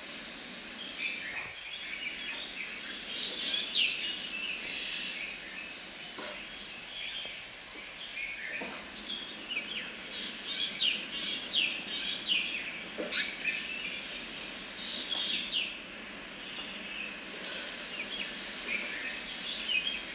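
Small birds chirping in short, repeated calls over steady background noise, with a few faint knocks.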